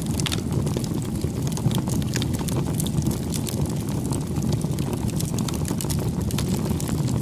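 Campfire burning: a steady low rumble of flames with many small, sharp crackles and pops from the burning wood.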